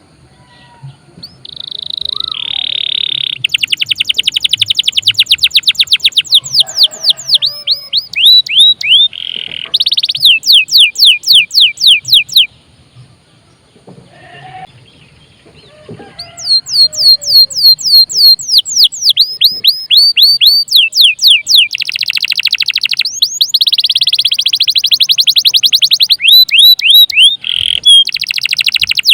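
Domestic canary singing in long phrases of fast trills and rapid repeated downward-sweeping notes, with a pause of a few seconds midway.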